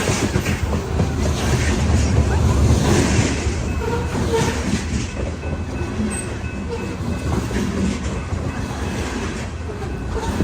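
Loaded coal train cars rolling steadily past, a continuous low rumble of wheels on rail with faint clicking.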